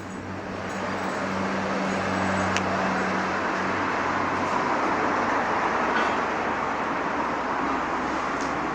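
Mitsubishi MT2201D tractor's diesel engine running just after being started, growing louder over the first couple of seconds and then running steadily, its note settling lower a few seconds in.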